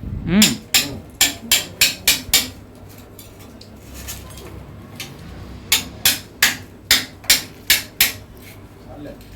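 Hammer strikes in two quick runs of about seven blows each, roughly three a second, separated by a pause of about three seconds.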